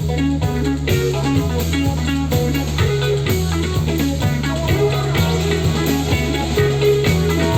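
Organic trance band playing: guitar lines over a steady pulsing bass line, the bass repeating about twice a second.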